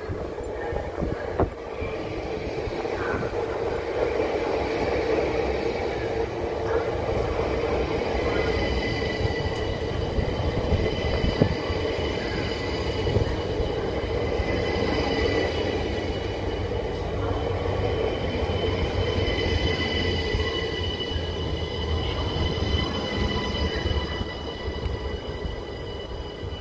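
Electric passenger train running past close by: a steady rumble of wheels on rail with several high, steady whining tones over it.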